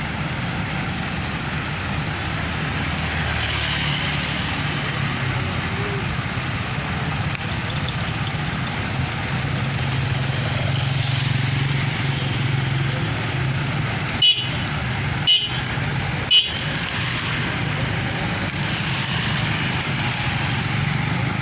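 Busy road traffic with buses and trucks passing, a steady low engine rumble, broken by three short, loud horn toots about a second apart.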